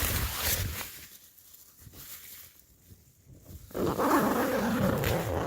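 A tent door zip is pulled open with a quick rasp in the first second. About three and a half seconds in, a strong gusty wind suddenly blasts onto the microphone and keeps on loudly.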